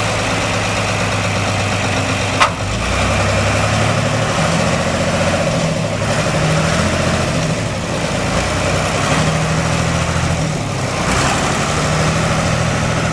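John Deere 2955's six-cylinder diesel engine idling steadily, its pitch shifting slightly now and then. There is a single sharp click about two seconds in.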